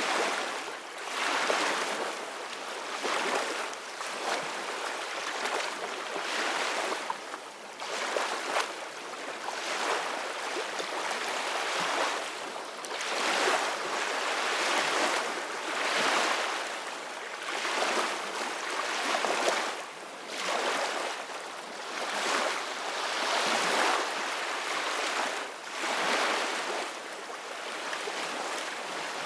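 Ocean surf: small waves washing in one after another. The hiss of water swells and falls back every two to three seconds, with no deep low end.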